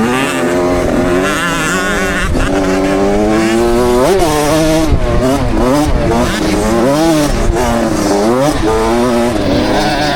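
KTM 65 SX two-stroke motocross bike engine being ridden hard, its revs rising and falling again and again as the throttle is worked and gears are changed, with a rumble of wind and track noise at the helmet.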